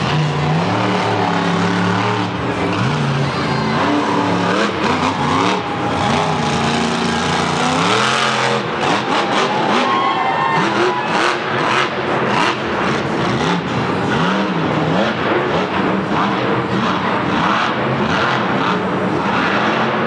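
Monster truck's supercharged V8 engine revving up and down repeatedly under hard throttle, with a run of short sharp cracks about eight seconds in and after.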